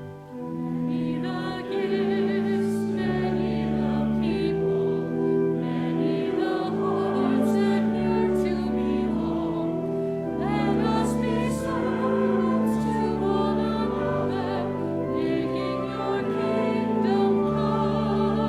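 A congregation singing a hymn with organ accompaniment, in held notes that step from chord to chord. After a brief drop at the start, the voices come back in about a second and a half in.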